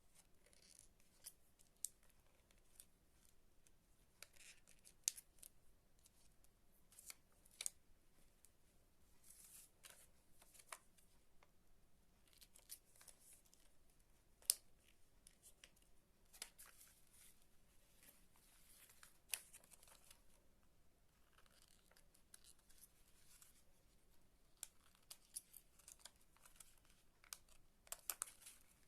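Faint handicraft sounds: scattered small sharp clicks and a few short rustles as craft materials are handled, with a brief cluster near the end.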